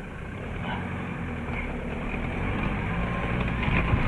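Land Rover Defender's diesel engine running as the vehicle drives slowly over a muddy lane, growing a little louder, with a few knocks near the end.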